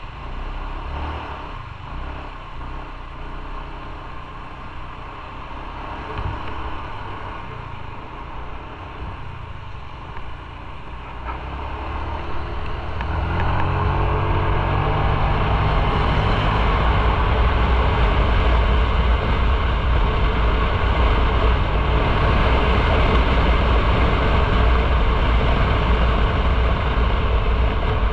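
Motorcycle engine running at low speed, then accelerating about halfway through with a rising engine note, and carrying on at speed with a loud, steady rush.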